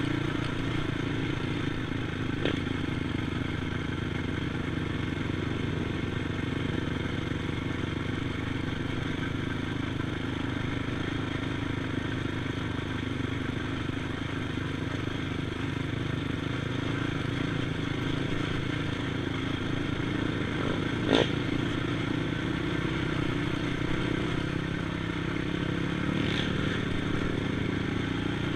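ATV engine running steadily throughout, with three sharp knocks or clatters, the loudest about three-quarters of the way through.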